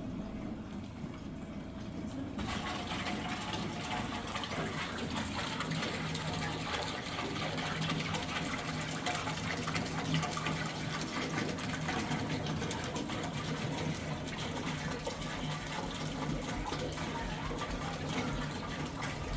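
Water running steadily, as from a tap or hose filling a container; it starts suddenly about two seconds in, over a faint low hum.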